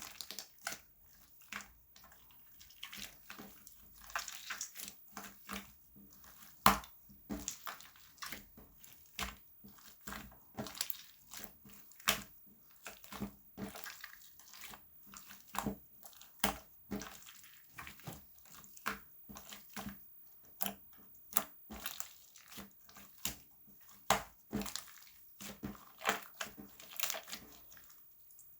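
Slime being squeezed, pressed and stretched by hand, making a stream of irregular sticky clicks and small wet pops, one louder snap about a third of the way in.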